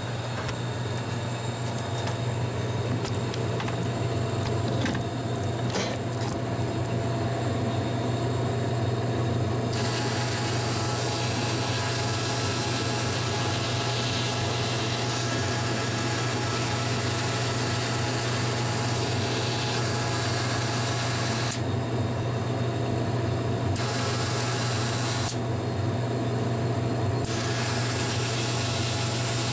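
Steady low mechanical hum from a Dixie Narco can vending machine, with a few clicks and knocks in the first seconds as its rotor parts are handled and set back in place.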